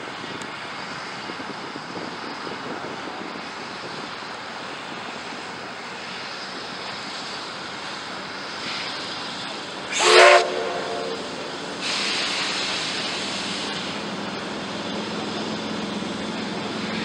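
Black Hills Central #110 steam locomotive standing at the station: a steady hiss of steam, a short loud whistle blast about ten seconds in, then a louder burst of escaping steam for about two seconds.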